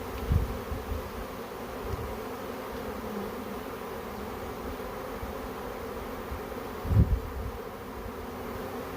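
Honey bee swarm buzzing in a steady, dense hum. Two low thumps, one just after the start and a louder one about seven seconds in.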